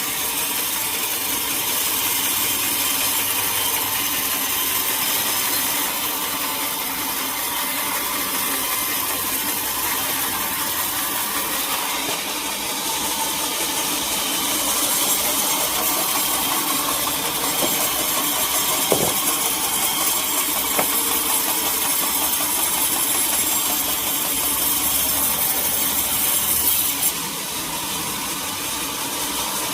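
Sawmill saw cutting through a teak log: a steady, dense noise of the blade in the wood, with the mill's machinery running underneath. There is one short knock about two-thirds through, and the sound drops a little and changes a couple of seconds before the end.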